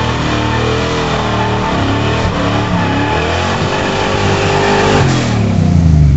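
Two drag-racing car engines, a 5.0 V8 and a turbocharged Integra four-cylinder, revving at the start line; about five seconds in the sound changes sharply as the cars launch, and the engine pitch slides lower as they pull away.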